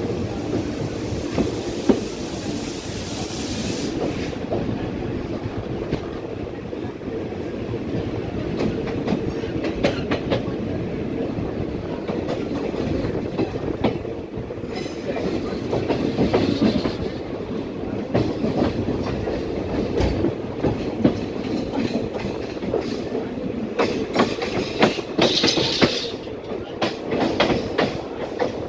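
Indian Railways passenger coaches rolling over the tracks, the wheels clicking and clattering over rail joints and points. A hiss in the first few seconds cuts off suddenly, and there are brief high squeals from the wheels, the strongest near the end.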